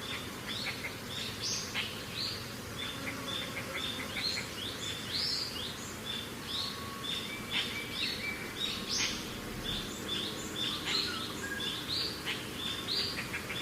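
Small songbirds chirping: a steady run of short, high chirps, about three or four a second and sometimes overlapping, over a low, even background noise.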